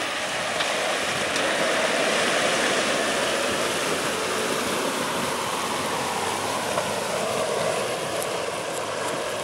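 Vehicle driving through a deep river ford: a steady rush of water churning around it, with the engine running underneath.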